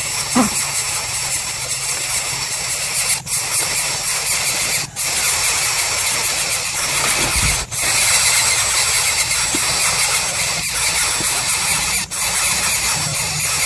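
Baby coucal chick giving a continuous harsh, hissing screech as it begs for food, broken by a few brief gaps.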